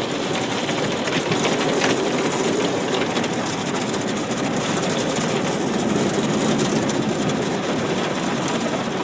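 Automatic car wash equipment working on the car, heard from inside the cabin: a steady rushing and rumbling noise.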